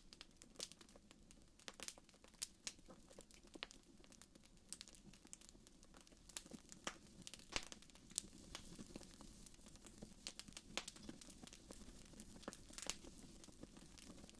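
Wood fire crackling in a fireplace: faint, irregular pops and snaps over a soft low steady rush.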